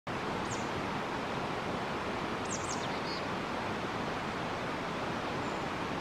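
Steady rushing background noise with a few short, very high, thin bird calls: one about half a second in, a quick pair of sharp up-and-down notes about two and a half seconds in, and a brief little trill just after three seconds.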